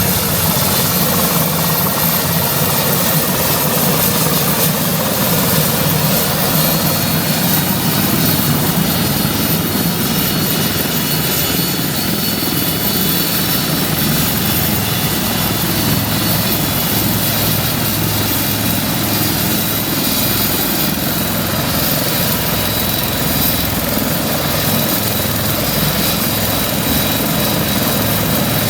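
Westland Lynx helicopter running with its rotors turning: a steady, continuous din of turbine whine and rotor noise with no change in power.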